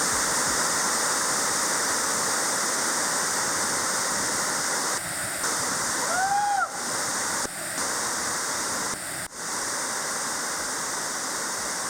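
Steady rushing roar of a waterfall's falling water, with a short rising-and-falling whistle-like call about six seconds in.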